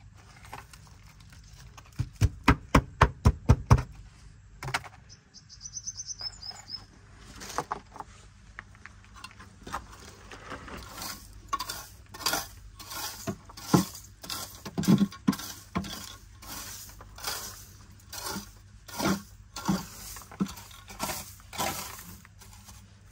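A quick run of about a dozen sharp knocks near the start, then repeated scraping strokes, roughly one or two a second, as a hand scraper and brush clear seed husks and litter from an aviary floor.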